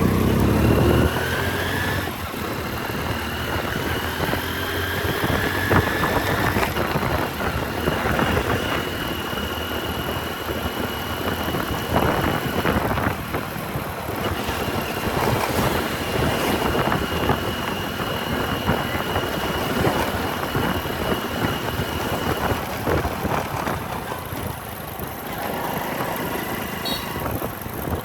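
Motorcycle riding through city traffic, heard from a helmet camera: steady engine, wind and road noise, with a rising whine in the first few seconds as it picks up speed.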